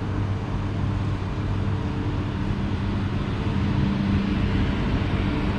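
A steady mechanical hum with several constant tones beneath a wash of noise, from a train standing at the platform.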